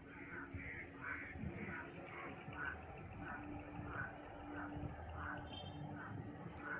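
An animal calling over and over in short notes, about two a second, with a faint low steady hum underneath.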